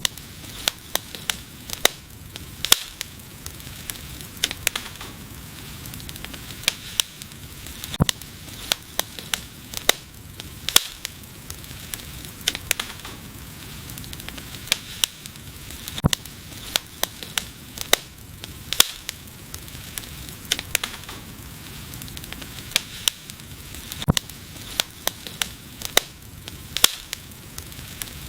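Wood fire burning, with frequent sharp irregular crackles and pops over a steady soft hiss.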